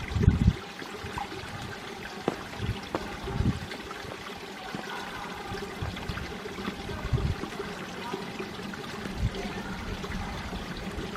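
Mountain stream flowing and trickling over rocks, a steady rush of water with a few brief low thumps.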